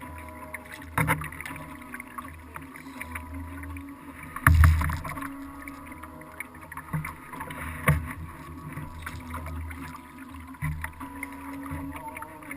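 Sounds of a kayak under way, picked up by a camera mounted on the boat: water moving against the hull with a few sharp knocks, the loudest about four and a half seconds in.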